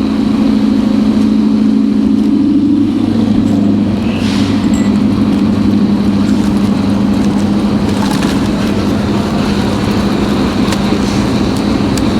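Riding noise of an electric bike at speed in traffic: a steady low hum, which rises slightly in pitch and then settles about three seconds in, over a constant rushing noise.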